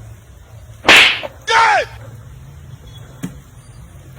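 A sharp whip-like crack, then about half a second later a short cry that falls in pitch.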